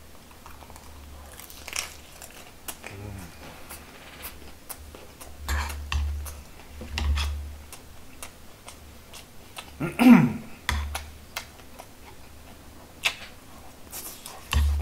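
Close-miked eating: chewing a napa cabbage wrap of grilled bulgogi, with sharp clicks of chopsticks and a spoon against the bowls and stone pot and dull low thumps. A brief falling voice sound comes about ten seconds in.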